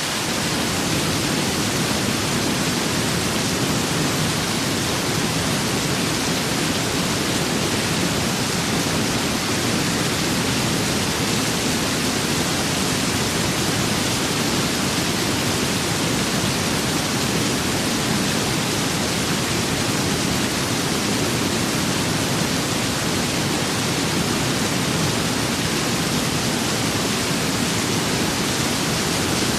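Steady rain and wind: an even, unbroken hiss with a fuller low rushing layer underneath.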